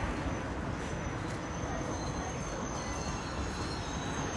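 Steady rumble of a tour boat under way, its engine running with rushing water.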